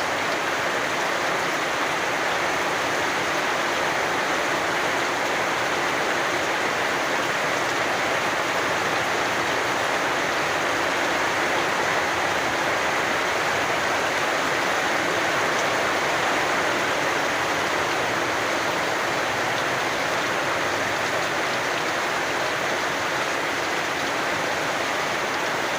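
Steady rain falling, an even wash of noise that never breaks or changes.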